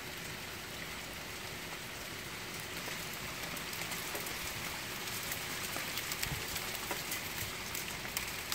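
Steady rain falling, with sharp individual drop hits growing more frequent and a little louder from about three seconds in.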